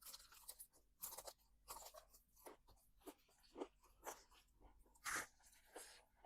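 Crunching and chewing of crispy fried chicken, in short irregular bites, the loudest crunch about five seconds in.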